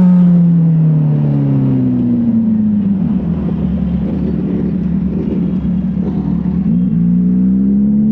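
Motorcycle engine on the move, its note falling steadily over the first few seconds as it slows, holding a steady rumble, then rising again near the end as it picks up speed.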